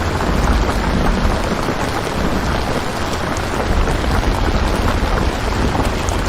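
Steady heavy rain ambience, an even wash of rainfall with a low rumble underneath.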